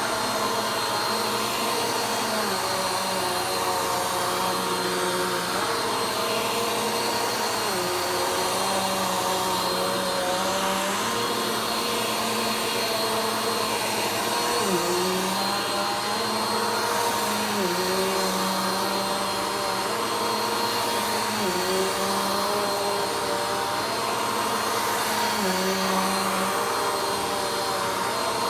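Vacuum cleaner running steadily through slow passes, its motor note dipping briefly and recovering every two to three seconds.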